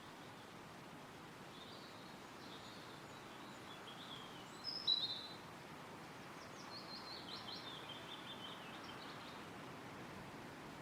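Wind rustling through forest trees with wild birds singing: scattered chirps, a louder call about five seconds in, then a quick run of short high notes.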